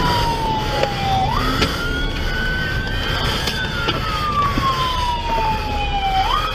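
Emergency vehicle siren wailing, its pitch sliding slowly down then jumping quickly back up, twice, over a low vehicle rumble.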